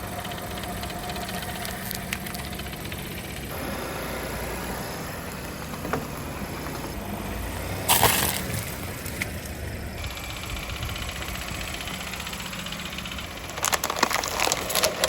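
A car engine idles steadily as the tyres roll over and crush onions, with one loud crunch about halfway through and a run of crackling crunches near the end.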